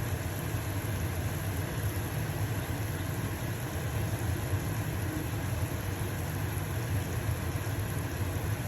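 Stovetop vent fan running steadily with a low hum, over the light sizzle of a pancake frying in a pan.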